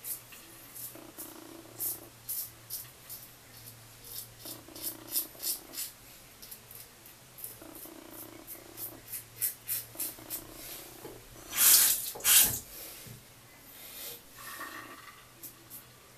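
Merkur 34C double-edge safety razor with an Astra blade scraping through stubble in short strokes, a rasp on each stroke, on a pass against the grain. About twelve seconds in come two much louder bursts of noise.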